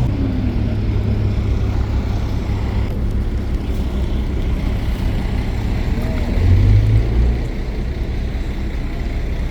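A large road vehicle's engine running with a steady low hum, swelling briefly louder about six and a half seconds in.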